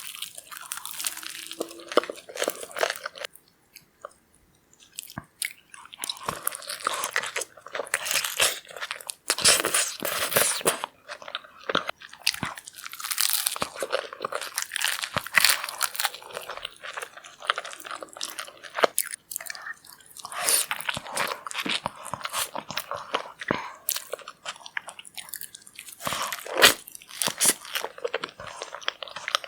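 Close-miked eating of seafood: crunching bites and chewing in irregular runs of crackles, with brief pauses between mouthfuls.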